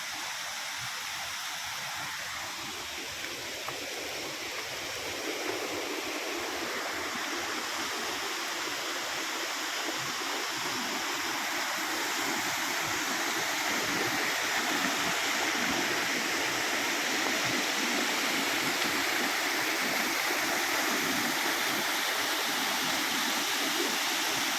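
Waterfall: a steady rush of falling water that grows a little louder over the first half.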